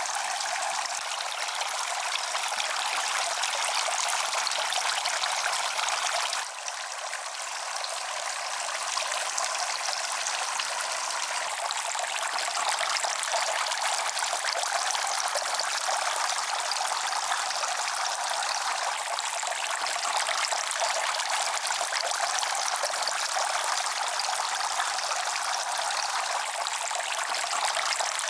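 Steady rush of flowing water, with a brief drop about six and a half seconds in.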